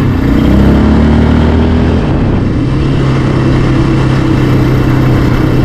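Yamaha Raptor 700R ATV's single-cylinder four-stroke engine running under way. The note shifts about two seconds in, then holds steady.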